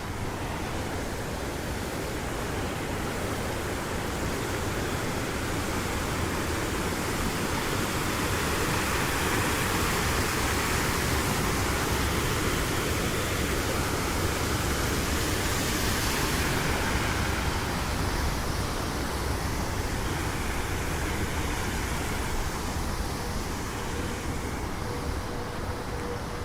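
Steady rush of water, swelling for a while in the middle and then easing, with a faint steady hum coming in near the end.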